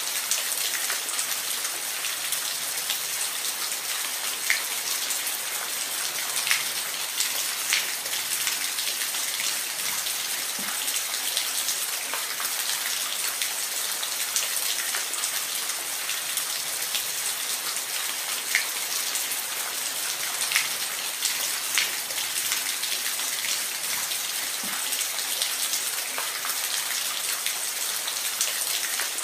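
Steady rain falling, an even hiss with scattered close drops tapping sharply on a surface.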